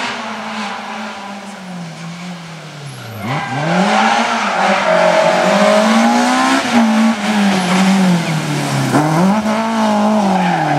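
Rally car engines at full throttle: a fainter engine at first, then a car close by, revving hard. Its pitch falls sharply about three seconds in and again near nine seconds, each time climbing back up as it accelerates.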